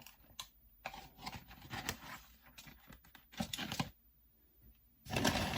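Fast-food paper and cardboard packaging being handled: scattered light rustles and knocks, then louder, steady rustling and crinkling about five seconds in.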